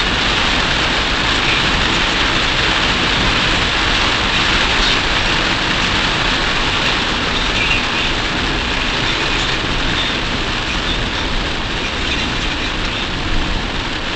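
A car driving at speed through heavy rain, heard from inside the car. Rain on the roof and windscreen and tyres on the wet road make a loud, steady, dense hiss that eases slightly near the end.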